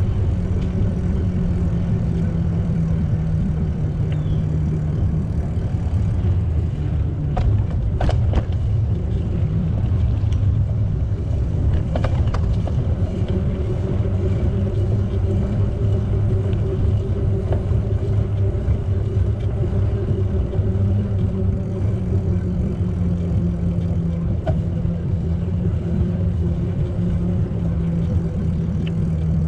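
Steady low rumble of a bicycle in motion: tyres rolling on pavement and air rushing over the microphone, with a few faint clicks.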